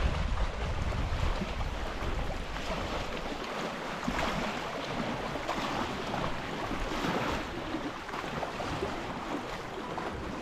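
Small lake waves lapping and splashing, with wind buffeting the microphone during the first second or so.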